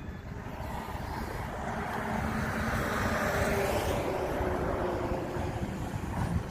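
Long intermodal freight train rolling slowly along the main line, a steady rumble of wheels on rail that swells in the middle, with wind on the microphone.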